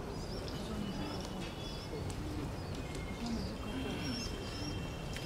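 Birds chirping again and again in short, high wavering notes over a faint murmur of voices and a low steady hum.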